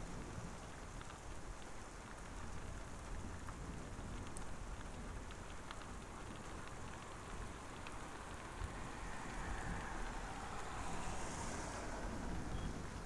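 Steady rain falling, an even hiss with scattered drops ticking. A swell of louder hiss builds in the second half.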